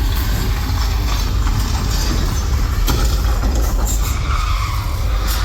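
Steady low rumble of a moving vehicle, with an even hiss above it and a few faint clicks.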